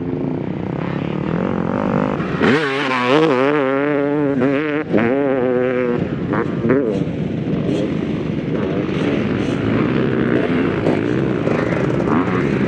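Motocross bike engine running hard through a flat corner. Its pitch wavers rapidly up and down for a few seconds as the throttle is worked, then it settles into a steadier note.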